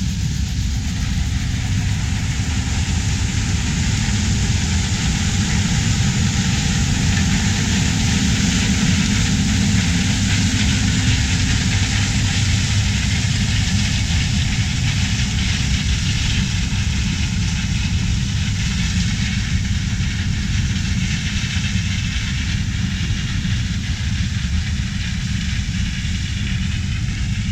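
Large diesel harvest machine running steadily: a dense, unchanging engine and machinery drone with heavy low rumble.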